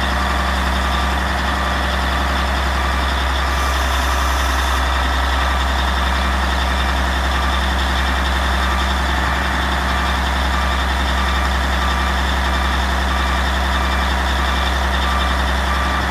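Caterpillar 16G motor grader's six-cylinder diesel engine running steadily, with a beep repeating at even intervals. A brief hiss comes in about four seconds in.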